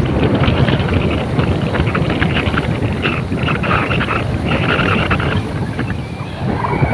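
Wind buffeting the microphone on a moving open vehicle, over a steady rumble of road and engine noise.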